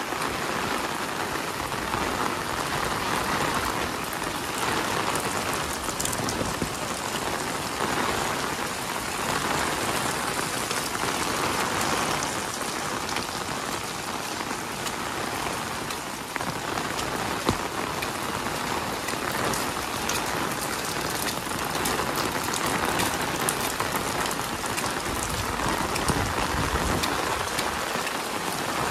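Heavy rain falling steadily, its hiss swelling and easing every few seconds with gusts of wind.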